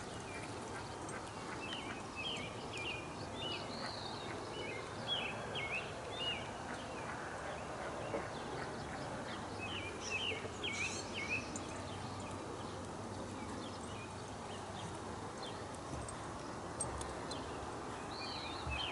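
Outdoor ambience: small birds chirping in short runs of rapid notes, in groups a few seconds apart, over a steady low background noise.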